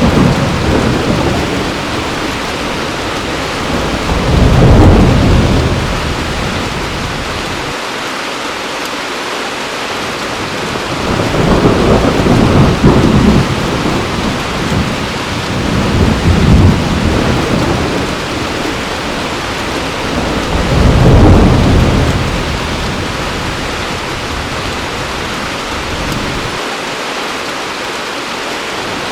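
Heavy rain pouring steadily, with rolls of thunder rumbling through it about four seconds in, again from about eleven to seventeen seconds, and once more around twenty-one seconds.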